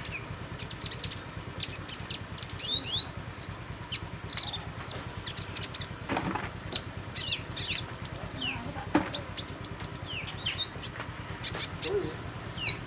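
Songbird chirping: a busy run of rapid high-pitched chirps and short sweeping whistle notes, over a steady low hum.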